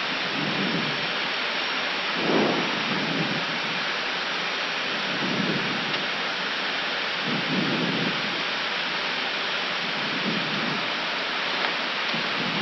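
Steady rushing noise of airflow and engines heard on the Airbus A319 flight deck on final approach, with the landing gear down and flaps at full. A few soft low swells rise and fall through it.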